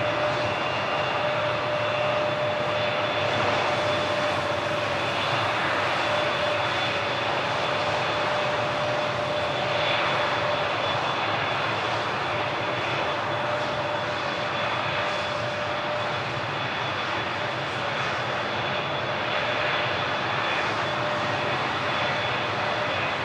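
Emirates Airbus A380-861's four Engine Alliance GP7200 turbofans running steadily, a continuous noise with a steady high whine and a lower hum in it.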